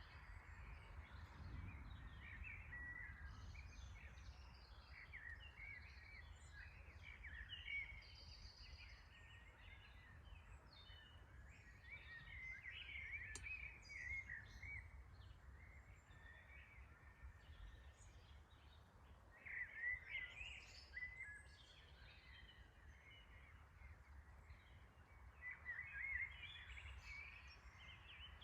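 Faint birdsong: small birds chirping and warbling in clusters, busiest around a third of the way in, about two-thirds in and near the end, over a low steady rumble.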